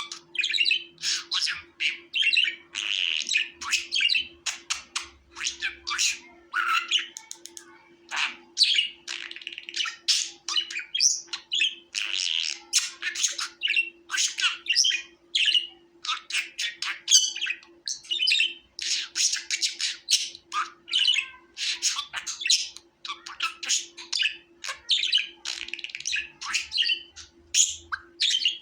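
Budgerigars (budgies) chirping and squawking continuously in a fast, chattering flock chorus.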